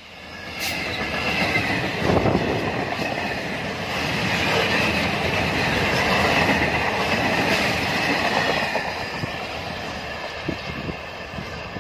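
Diesel-hauled freight train passing close at speed, the noise of its wagons on the rails building to a peak around the middle and then slowly fading as the train moves away. A few short clicks come near the end.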